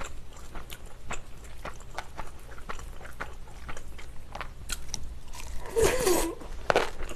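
Close-up biting and chewing of spicy napa cabbage kimchi, with many short crisp crunches and wet mouth clicks. A brief voiced hum comes about six seconds in.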